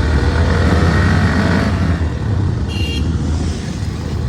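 Hero motorcycle engine running under way, with road and wind noise. The engine pitch climbs slightly, then eases off after about a second and a half, and a short high beep sounds near the middle.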